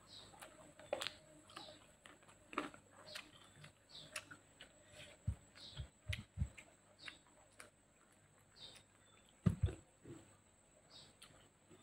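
Close-miked chewing and lip smacking of a person eating a mouthful of rice by hand, with many small wet mouth clicks. A few low thumps come about halfway through and again near the end.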